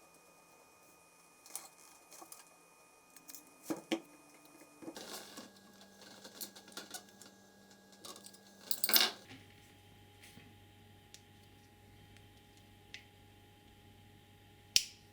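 Scattered light clicks and knocks, a few sharper ones among them, as of small hard objects being handled and set down.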